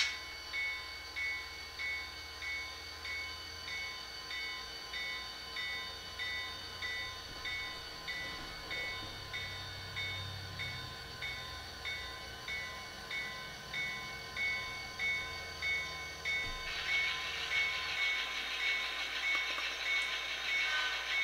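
Sound-decoder audio from an HO scale Athearn Genesys Norfolk Southern GP40-2 (SoundTraxx Tsunami2): the locomotive bell rings about twice a second over the low diesel engine sound, which swells briefly in the middle. About three-quarters of the way through, a steady hiss joins in.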